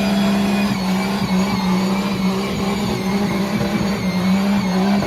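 Truck engine held wide open at high, steady revs over a constant hiss, as in a burnout.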